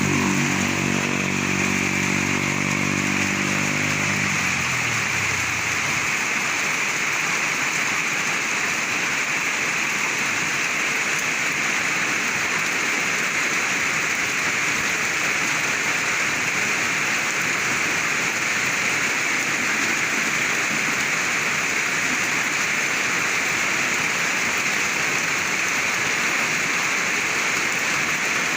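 Heavy rain falling steadily. A passing vehicle's engine is heard at the start and fades away within about five seconds.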